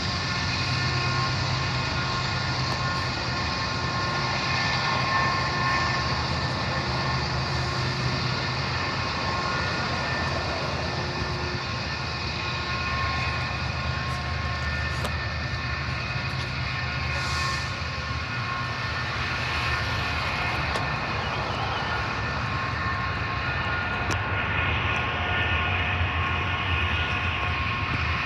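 A train rolling past, a continuous low rumble of wheels on rail with several steady high-pitched tones running through it.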